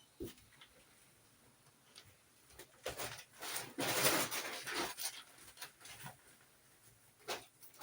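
Laundry being taken out of a washing machine: scattered clicks and knocks, with a louder spell of rustling about three to five seconds in.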